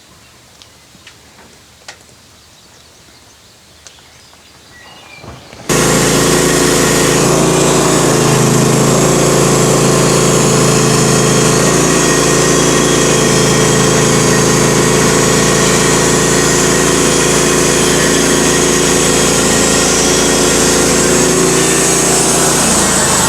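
A few faint clicks, then about six seconds in a sawmill engine comes in suddenly and runs loud and steady at high speed.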